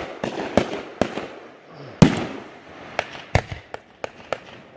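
Fireworks going off in a rapid series of sharp bangs and pops, the loudest about two seconds in, with a quick cluster of smaller pops near the end.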